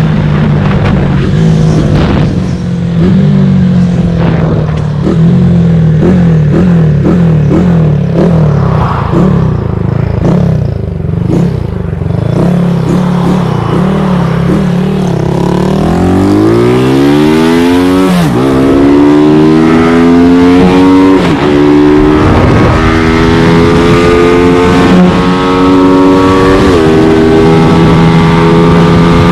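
Modified CG200 single-cylinder motorcycle engine running at low, uneven revs for about the first half. It then revs up hard and pulls through several gears, the pitch dropping briefly at each shift before climbing again.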